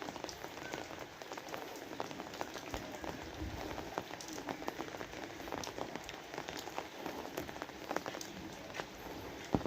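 Steady rain falling, with many separate drops striking close by as short sharp ticks over the even hiss of the downpour.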